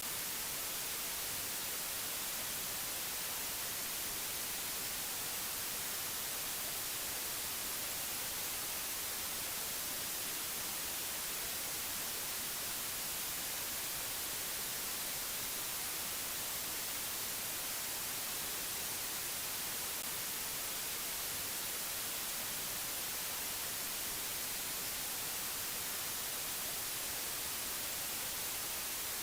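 Steady, unchanging hiss like static or white noise, brightest in the high frequencies.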